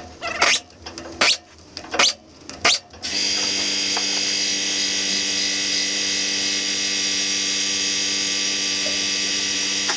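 A power tool, likely a drill or driver, gives four or five short bursts, then runs steadily from about three seconds in, as bolts are worked loose on the air compressor's engine.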